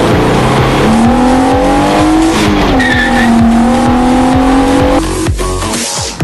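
Opel C25XE 2.5-litre V6 engine pulling under acceleration, its pitch rising steadily with one brief dip partway through, over dance music with a steady kick-drum beat. The engine sound stops about five seconds in, leaving only the music.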